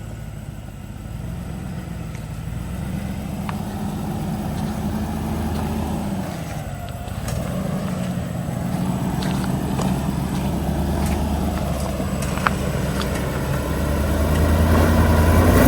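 Solid-axle-swapped Suburban's engine running at low revs as it crawls slowly over rocks, with a few sharp clicks along the way. The engine note dips briefly midway, then rises and gets louder near the end as more throttle goes in.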